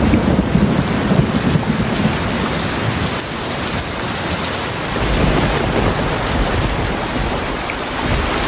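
Heavy rain falling steadily, with low rolls of thunder rumbling, one at the start and another about halfway through.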